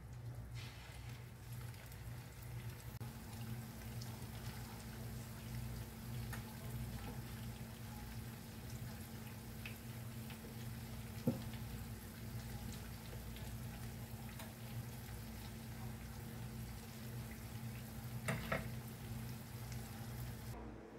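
Lumpia-wrapped banana turon frying in shallow oil in a pan, a steady sizzle over a low hum, with a couple of sharp clicks of metal tongs about halfway and near the end.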